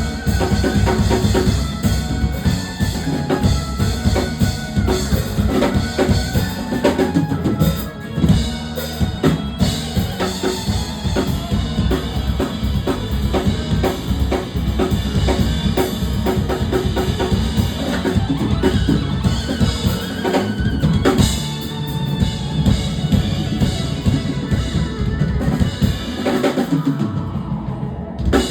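Instrumental band music with no vocals, led by a drum kit playing a steady beat of kick, snare and rimshots over other instruments. It dies down right at the end.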